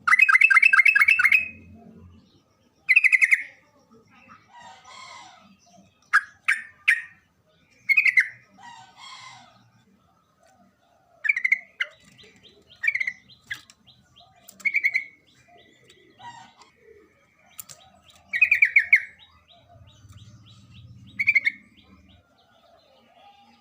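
Yellow-vented bulbul (trucukan) giving short, loud, bubbling chattering phrases, a long rapid one at the start and then about ten more every second or two.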